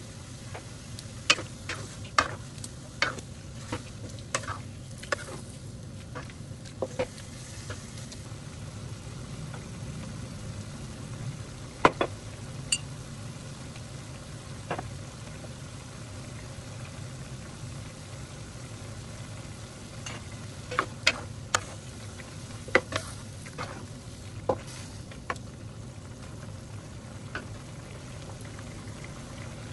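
Squid pieces frying in a non-stick pan with a steady sizzle, broken by sharp clicks and knocks of utensils against the pan and containers. The clicks come in clusters: through the first several seconds, once loudly about twelve seconds in, and several between about twenty and twenty-five seconds.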